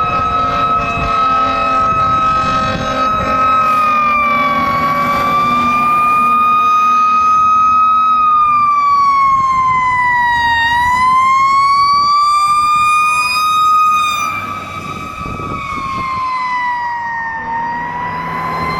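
Federal Q mechanical siren on a responding fire truck, screaming at a high sustained wail. Its pitch sags and winds back up twice, about halfway through and again near the end. A second, lower siren tone falls away in the first few seconds, and another winds up briefly in the middle.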